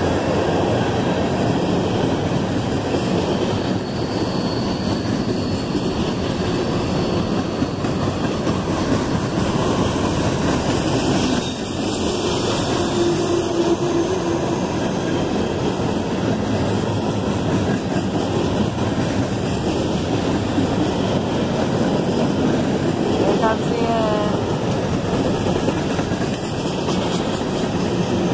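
Open-top hopper cars of a CSX freight train rolling past at steady speed, a continuous rumble and rattle of steel wheels on rail. There is a brief wheel squeal a little under halfway through and a short squeaking near the end.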